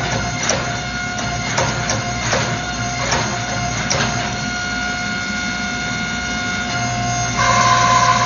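Hydraulic forging press running, its pump and motor giving a steady whine and hum, with sharp irregular cracks through the first half as the hot billet is pressed. About seven seconds in, the pump note turns louder and harsher.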